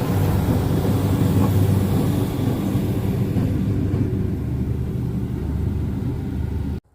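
A train's steady low rumble with a hiss on top that fades about halfway through; the sound cuts off abruptly near the end.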